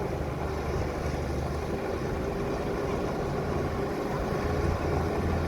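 Bulldozer's diesel engine running steadily, a little louder near the end.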